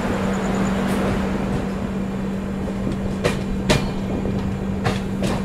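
Passenger train running at speed, heard from inside the coach: a steady rumble with a low steady hum. In the second half, sharp wheel clacks over rail joints come in two quick pairs.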